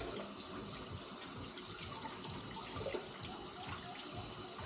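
A tap running steadily into a sink while a hand is rinsed under it.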